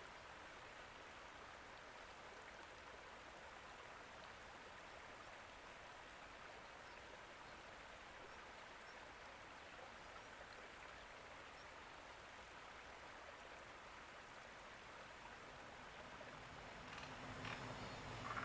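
Faint, steady hiss of running water. It grows louder in the last second or two as other, pitched sounds come in.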